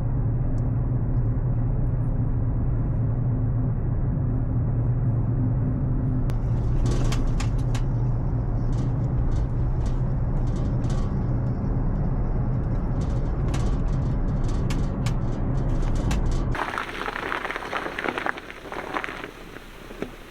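Steady low rumble and hum of a car driving, heard from inside, with scattered light clicks in the middle. About sixteen seconds in it cuts to a quieter, hissing crackle.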